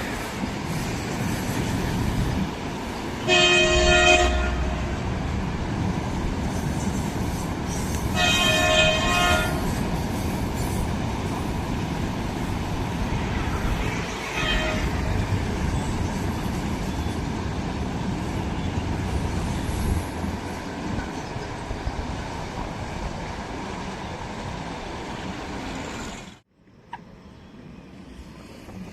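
Train running past with a steady rumble of wheels on the rails while the locomotive horn sounds three times: two blasts about a second long, some five seconds apart, then a shorter one. Near the end the sound cuts off suddenly and a quieter background follows.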